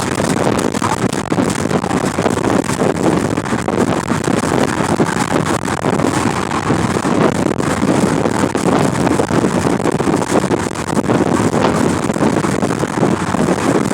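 Wind buffeting the microphone: a loud, unbroken rush with a rumbling low end that swells and dips.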